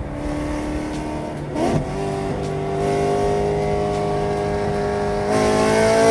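Performance car engine running under load, its exhaust note held steady and slowly rising in pitch as it accelerates, stepping up and climbing faster about five seconds in.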